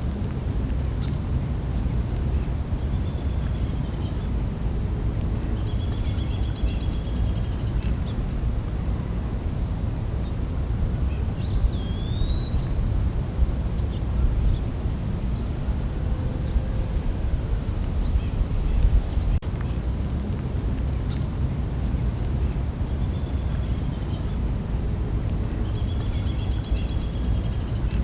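Night forest ambience of insects: a steady high drone with rows of quick cricket-like chirps repeating in runs, a few short rattling trills, and one brief whistled call about twelve seconds in.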